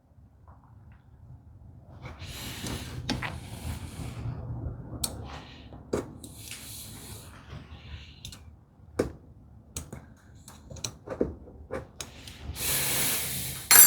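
A marking knife scraping across wood in a few short strokes, scoring a layout line for a housing dado, between light clicks and knocks of tools and wooden parts being handled.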